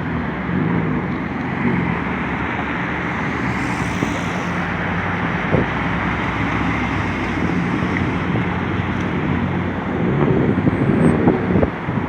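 Railroad car rolling along with a steady rumble, with a couple of sharp knocks, one about halfway through and one near the end.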